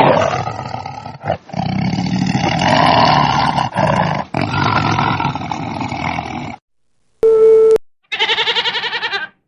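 A sequence of cut-together animal calls: a long, rough roaring call broken by short edits, then a brief steady tone, then a quavering bleat.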